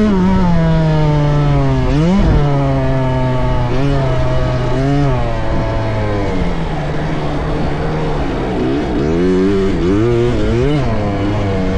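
Small youth motocross dirt bike engine on the throttle, its pitch sagging and then jumping up again and again. There are sharp rises about two, four and five seconds in, and a quick run of throttle blips near the end.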